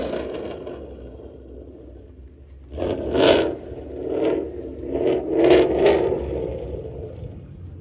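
Loud Mustang exhaust revved in about five short, sharp blips, starting about three seconds in and ending about six seconds in.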